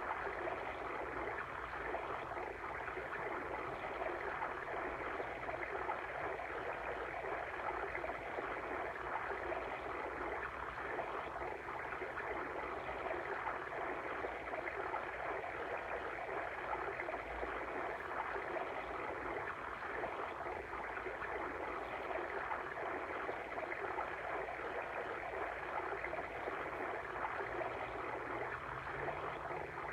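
A water stream flowing steadily.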